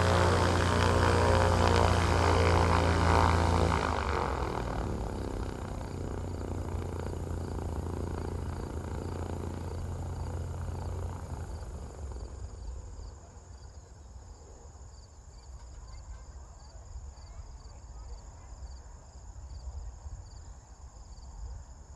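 Piston engine of a propeller airplane running loud for about four seconds, then fading away over the next eight seconds or so as it moves off. After that, insects chirp steadily in a pulsing rhythm.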